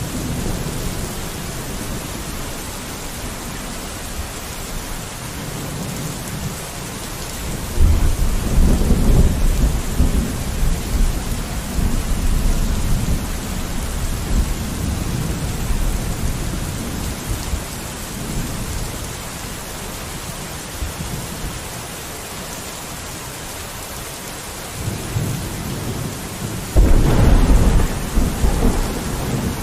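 Steady rain with two deep rolls of thunder, one starting about eight seconds in and the other near the end, each breaking in suddenly and rumbling for a few seconds.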